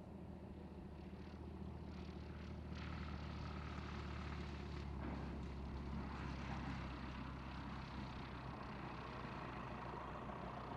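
Light aircraft's piston engine running at low power: a steady low hum that grows gradually louder over the first few seconds, then holds.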